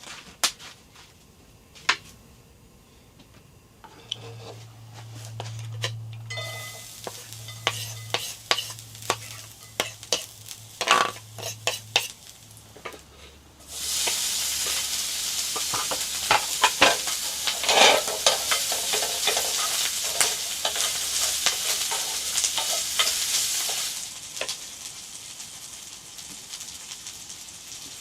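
Food sizzling in a hot pan, with clicks and scrapes of a cooking utensil. The loud sizzle starts suddenly about halfway through and drops back to a quieter hiss a few seconds before the end.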